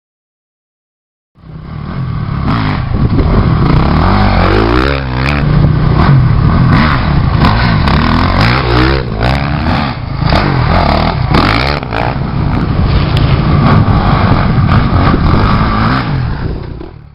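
Motorcycle engine revving up and down while riding, with many short knocks and rattles throughout; it starts suddenly about a second in and fades out at the very end.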